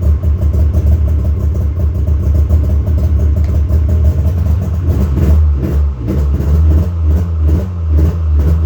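Snowmobile engine warming up after a cold start, running steadily at first; from about five seconds in its pitch rises and falls unevenly in quick surges as it starts to pick up.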